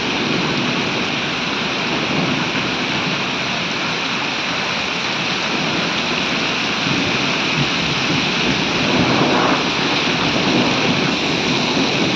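Heavy rain pouring down with hail, a steady dense hiss that grows a little louder in the second half.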